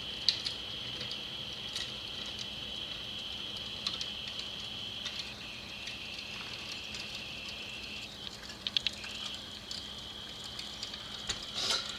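Scattered light clicks and taps of small carburetor parts being handled, over a steady high-pitched whine.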